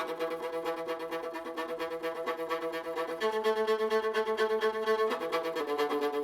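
Background music of a violin with bowed strings, held chords pulsing in quick even repeated strokes; the chord changes about three seconds in and again near five seconds.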